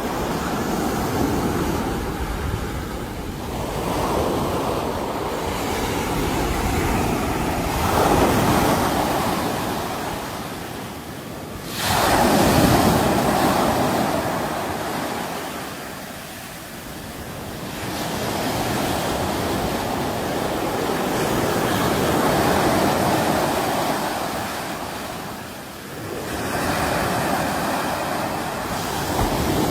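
Sea waves breaking on a shore in a continuous wash that swells and falls back every few seconds, with a sudden louder break about twelve seconds in.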